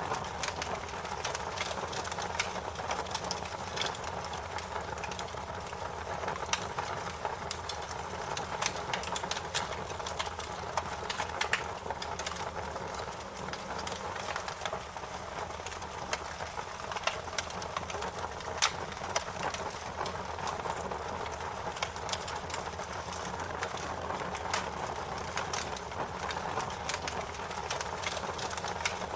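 Fire crackling: a steady low hiss of burning wood with frequent irregular sharp pops and snaps.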